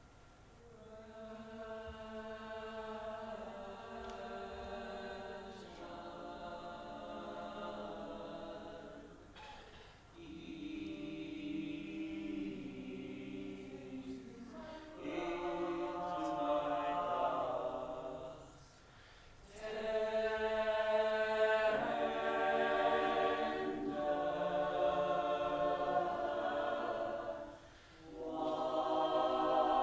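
A choir singing long held chords in phrases of a few seconds each, with short breaths between them, growing louder about halfway through.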